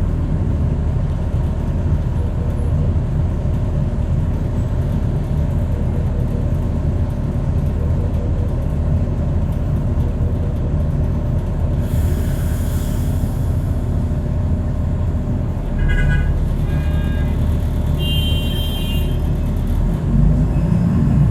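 Steady low rumble of a train and waiting traffic at a railway level crossing. A hiss comes about twelve seconds in, short horn beeps come near sixteen and eighteen seconds, and an engine revs up near the end.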